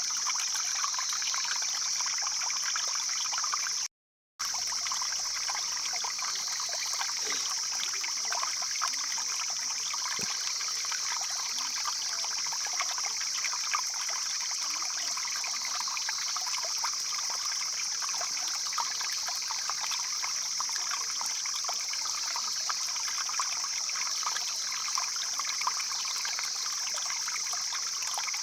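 Mountain stream flowing over stones, a steady babbling trickle, with a constant high-pitched hiss above it. The sound cuts out completely for about half a second around four seconds in.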